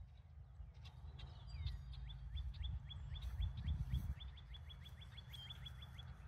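A songbird singing a fast trill of short down-slurred whistled notes, about six a second, starting about a second in and stopping just before the end, over a low outdoor rumble.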